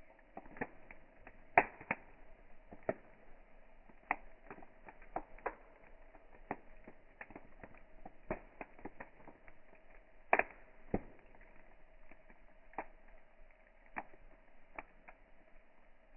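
Wood fire crackling: irregular sharp pops and snaps, the loudest about one and a half seconds in and again about ten seconds in, over a faint steady hum.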